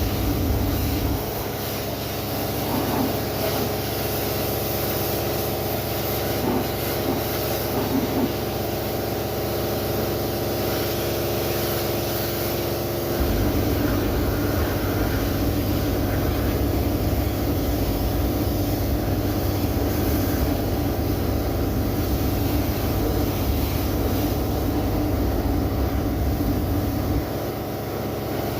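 An engine running steadily, its low note changing about a second in, again about thirteen seconds in, and near the end.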